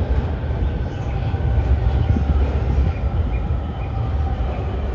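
Electric train at a station platform, a steady low rumble.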